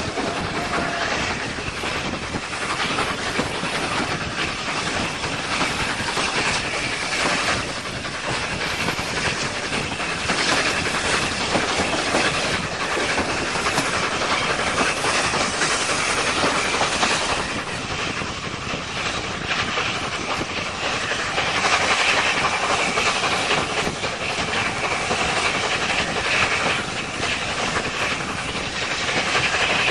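Railway carriage ride noise at an open door window: steady rushing wind and the running of the wheels on the rails, with some clickety-clack. It swells a little in the middle and again later on.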